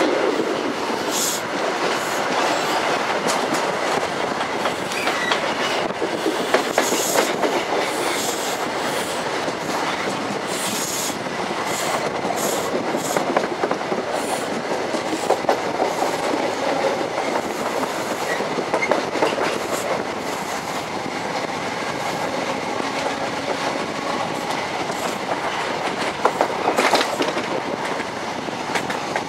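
InterCity 125 (HST) passenger train running, heard from an open coach window: a steady rush and rumble with the wheels clacking over rail joints and pointwork every few seconds.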